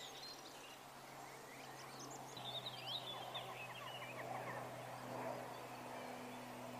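Small birds chirping and twittering, with the most calls a little over two seconds in, over a faint, steady low hum.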